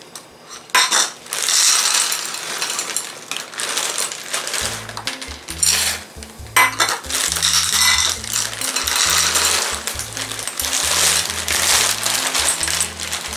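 Dry textured soy protein chunks poured from a metal measuring cup into a metal pot, a dense rattling patter of small hard pieces. Background music with a low bass line comes in about four and a half seconds in.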